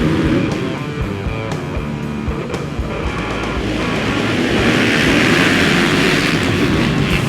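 Background music with a steady beat laid over off-road racing motorcycle engines running, the engine noise swelling louder in the second half.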